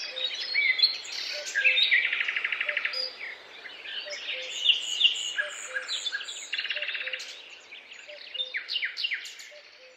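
Several songbirds singing over one another, with chirps and whistled phrases and two rapid trills, one about two seconds in and one about seven seconds in. A faint low note repeats about twice a second beneath them, and the birdsong fades down near the end.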